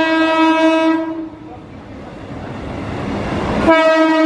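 Indian Railways electric train horn sounding a steady pitched blast that dies away about a second in. A rising rush of train noise follows, then the horn blasts again abruptly near the end.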